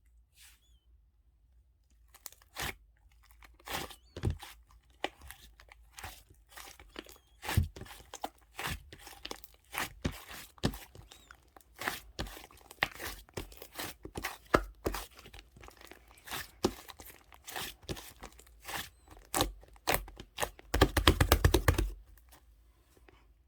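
Irregular crinkling and crunching, like something being handled or crushed, with sharp crackles coming every fraction of a second. Near the end comes a dense, fast rattle of crackles, the loudest part, which stops abruptly.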